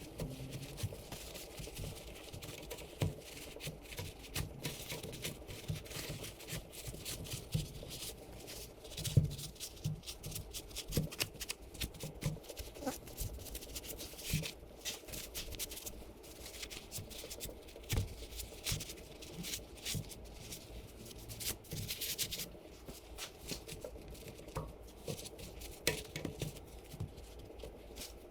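Hand scrubbing and handling while cleaning engine parts: irregular scratching, rubbing and light clicks and taps, with a short hiss about three quarters of the way through.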